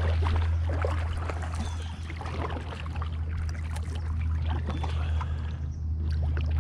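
Kayak being paddled: irregular splashing and dripping of water from the paddle strokes, over a steady low hum.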